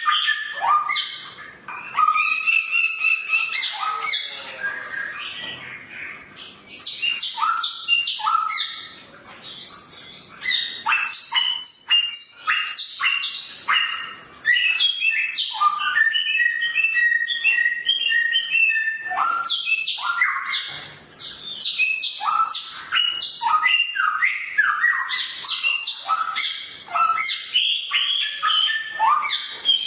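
Samyong songbird singing sharp, rapid, varied phrases of chirps and whistles, with brief pauses between bursts and a run of evenly repeated notes midway.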